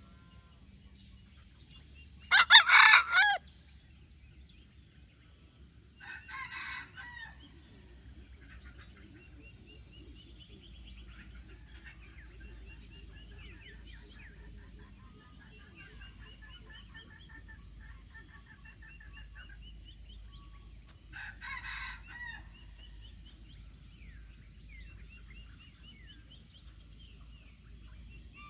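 A rooster crows loudly once about two seconds in, and fainter answering crows come later, about six seconds in and again past twenty seconds. Under them runs a steady high insect drone with scattered small bird chirps.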